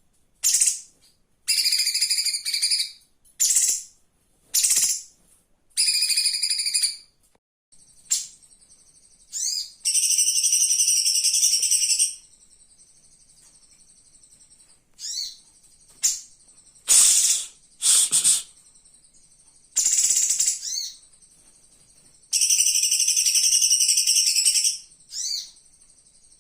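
A cucak cungkok singing energetically in repeated bursts of high chattering phrases, each lasting up to two seconds, with short pauses between them. A thin, steady high tone runs faintly behind the song from about eight seconds in.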